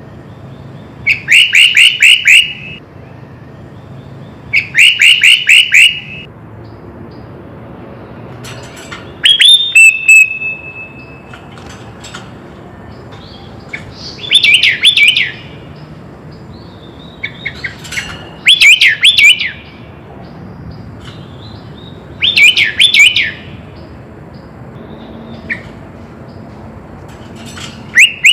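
Sooty-headed bulbul (kutilang) singing: short bursts of fast, chattering, whistled notes about every three to four seconds, one phrase ending in a briefly held whistle.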